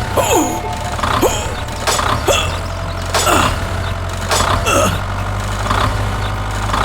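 A small machine running with a steady hum, with a falling squeal and a clatter repeating about once a second.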